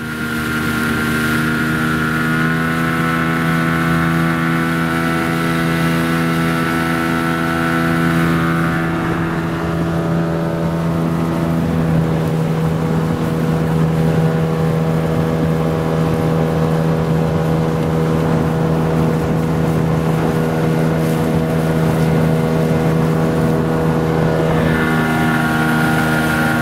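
Vehicle engine running at a steady speed, heard while riding along: a constant hum that shifts slightly about nine seconds in and again near the end.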